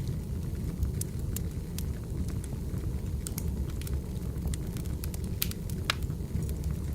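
Firewood burning, crackling and popping in irregular sharp snaps over a steady low rumble, with one louder pop near the end.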